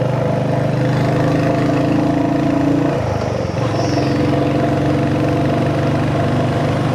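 Royal Enfield Hunter 350's 349 cc single-cylinder engine and exhaust running steadily while riding. The engine note drops away briefly about three seconds in, then picks up again at a slightly different pitch.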